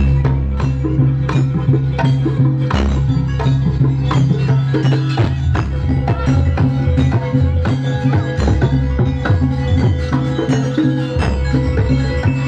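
Traditional percussion ensemble music: a steady beat of struck percussion over sustained low tones, with held higher pitched notes.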